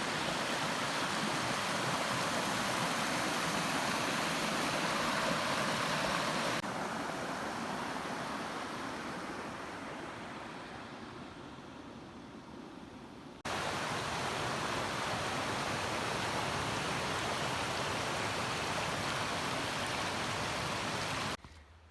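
Rushing water, as of a waterfall or rapids, heard as three back-to-back clips with sudden cuts between them; the middle clip fades down gradually before the next cuts in.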